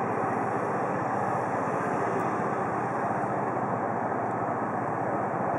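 Steady city street noise: traffic in a jam, running at an even level with no sudden events.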